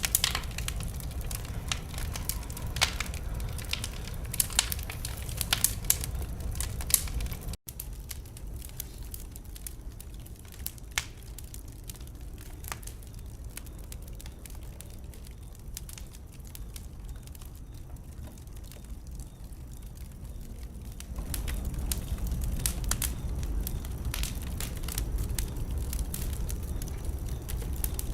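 Fire burning in a fireplace, crackling and popping over a steady low rumble of flame. A brief dropout comes about a quarter of the way in; after it the crackles are quieter and sparser, then louder and busier again for the last quarter.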